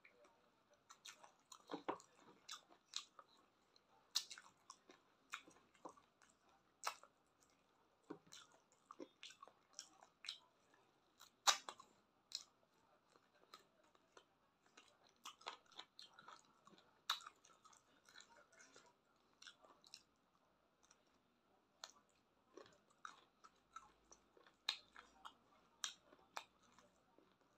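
Faint close-up mouth sounds of chewing chicken feet and skin eaten by hand: irregular wet clicks and smacks, a few a second, with short pauses between mouthfuls.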